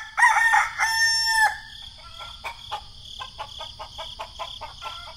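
A rooster crows once in the first second and a half, then a quick run of short strikes, about four a second, goes with a hoe chopping into sandy soil. A faint steady high tone lies underneath.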